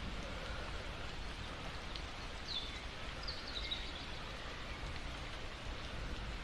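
Steady rain falling, an even hiss of drops. A few brief high chirps cut through it about two and a half seconds in and again just after three seconds.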